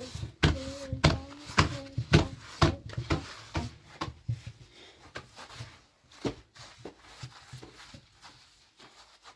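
A run of sharp, hard taps and knocks, about two a second, loudest over the first few seconds and then thinning out and growing fainter.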